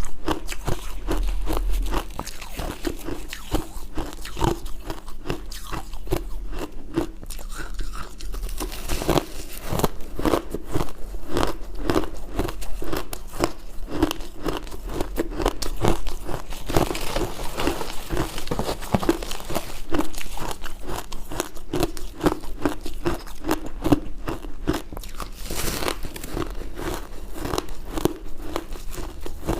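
Ice being bitten and chewed up close, a steady run of crunching that goes on throughout.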